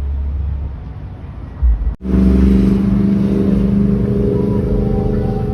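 Car engine sounds: a low rumble, then after a sudden cut about two seconds in, a loud, steady engine drone holding an even pitch.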